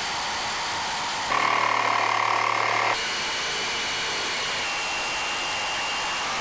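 Electric power saw running as it cuts wood pieces, a steady whirring that grows louder with a pitched tone for about a second and a half, then settles to a steadier, quieter run with a thin high whine.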